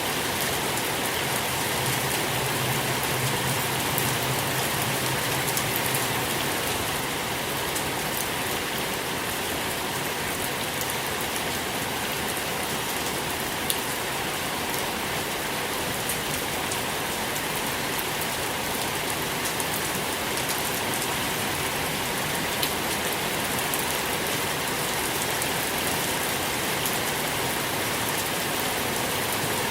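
Steady rain falling, an even hiss with the patter of individual drops on a surface.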